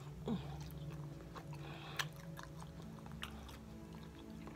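A person chewing a mouthful of food close to the microphone, with scattered sharp wet mouth clicks.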